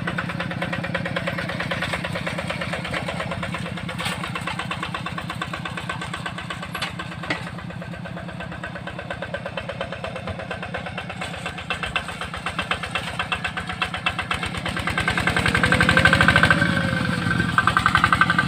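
Yanmar tractor's diesel engine running with a steady chugging beat. About fifteen seconds in it revs up and grows louder, then eases back down.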